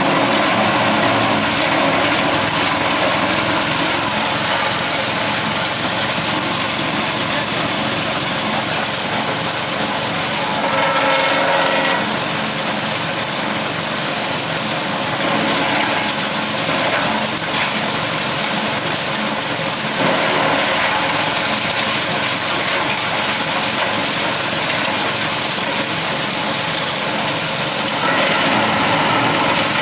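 Engine-driven forage chopper running steadily, its sound briefly changing about eleven seconds in.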